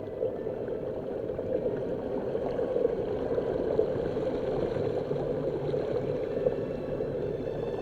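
Steady rushing, gurgling water noise with a crackly texture. It cuts in abruptly at the start, between stretches of background music.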